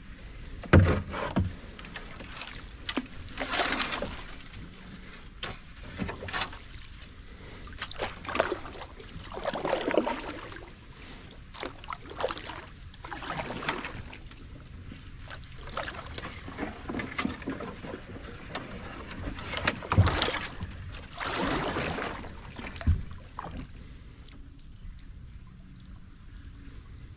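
Kayak paddle strokes swishing and splashing through swamp water at an uneven pace, with a few sharp knocks, the loudest near the start.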